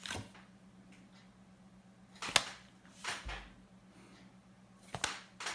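Paper flashcards being handled and flipped: a sharp snap about two and a half seconds in and softer swishes around three and five seconds, over a faint steady hum.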